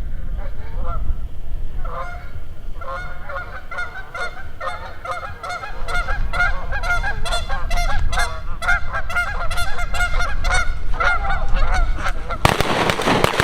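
A flock of Canada geese honking, with the calls growing denser from about two seconds in. Near the end a sudden loud blast cuts in, the start of shotgun fire.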